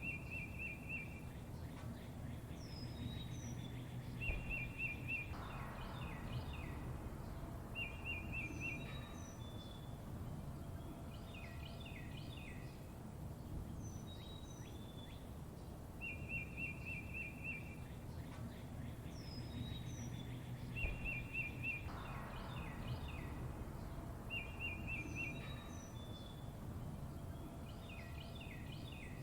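Songbirds chirping: a short rapid trill repeats every few seconds, with high, quick, down-sliding chirps between, over a low steady rumble. The same sequence comes round again about halfway through, as in a looped recording.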